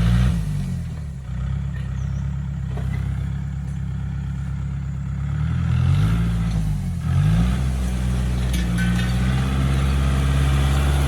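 Tractor engine running steadily, its engine speed dipping and recovering twice, near the start and about six to seven seconds in, with a few faint knocks near the end.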